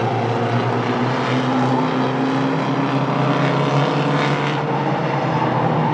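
Engines of several small stock-bodied race trucks running flat out around a short oval track: a steady, loud drone whose pitch drifts up and down a little as the trucks circulate.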